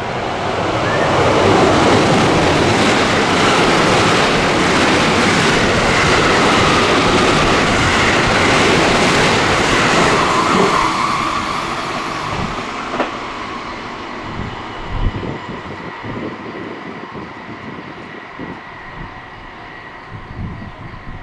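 A train passing through a station at speed: a rushing of wheels and air that swells within the first couple of seconds, holds for about eight seconds, then fades away, with a few sharp wheel clacks over rail joints as it recedes.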